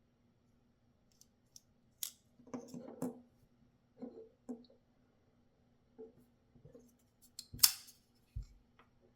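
Small metal clicks and knocks from handling a Shirogorov RKMP titanium folding knife, in uneven bursts. The loudest, sharpest click comes near the end, followed by a dull thump.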